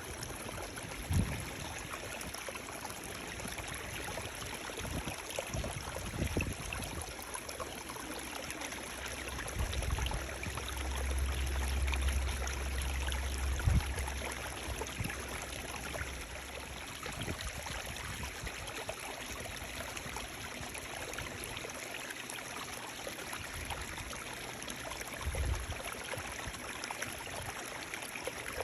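Running water flowing steadily, like a small stream, making an even rushing, trickling noise. A few brief low thumps and a longer low rumble a third of the way through break in under it.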